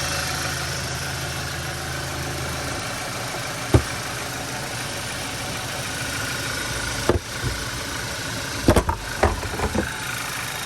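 2014 Audi A4's 2.0-litre turbocharged four-cylinder idling steadily; the low hum grows fainter about three seconds in. A single sharp knock comes a second later, and a cluster of knocks and clicks follows near the end.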